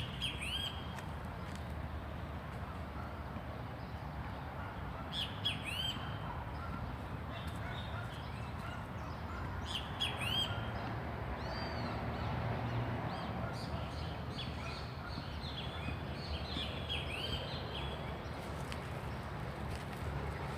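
Birds calling: short clusters of high, arching chirps that come back every few seconds, over a steady low rumble.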